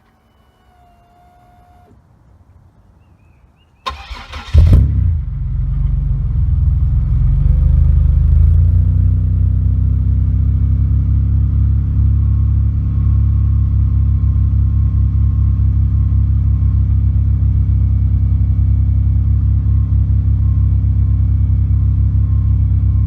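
The supercharged 3.8-litre V6 of a 2004 Pontiac Grand Prix GTP cranks and starts about four seconds in, flaring loudly as it catches. It then runs at a raised idle that drops a little a few seconds later and holds steady through the exhaust.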